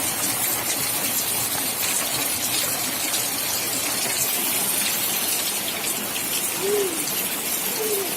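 Rain falling in a steady, even hiss, with two short faint calls near the end.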